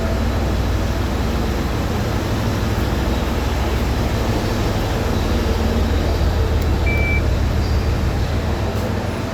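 Steady low rumble of a train at a station platform, swelling slightly past the middle, with a short high beep about seven seconds in.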